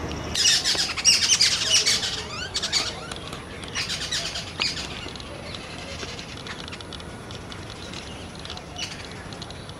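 Small birds chirping in rapid, high, overlapping bursts, loudest in the first two seconds and again about four seconds in, then thinning to scattered chirps over a steady outdoor background.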